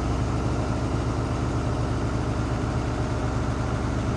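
Washing machine in its final spin cycle, the drum spinning with a steady low hum. The load is fairly balanced, so the machine runs evenly without shaking much.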